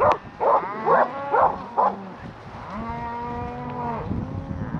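Cattle mooing: a quick run of short calls in the first two seconds, then a long, steady moo in the middle and another starting near the end.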